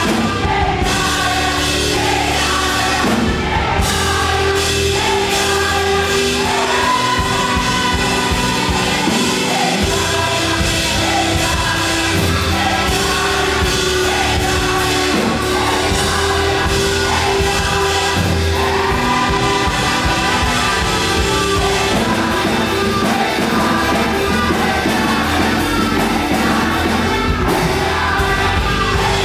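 Live uptempo gospel praise music: a group of voices singing together over a band with drums and bass.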